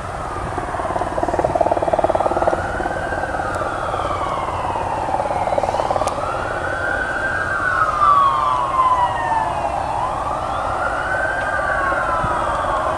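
Emergency vehicle siren in a slow wail, its pitch rising and falling about every four seconds.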